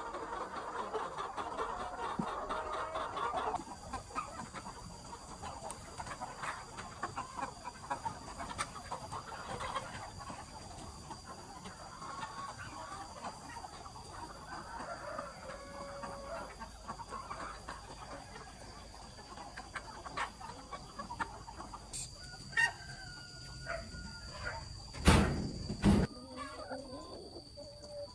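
Chickens clucking and calling throughout, over a steady high-pitched whine, with a loud short burst of sound about 25 seconds in.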